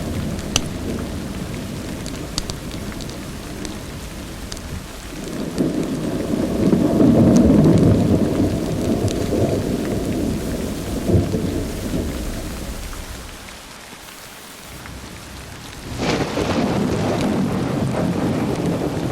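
Thunder rolling over steady rain: a long rumble swells about five seconds in, slowly dies away, and a new roll breaks in near the end. A few sharp little ticks sound over it early on.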